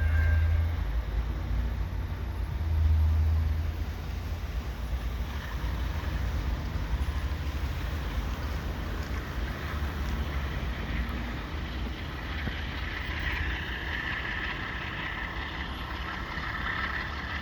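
GE ES44AC diesel-electric locomotives running light, their GEVO V12 diesel engines making a low rumble that swells twice in the first few seconds and then settles to a steadier drone, with wind noise on the microphone.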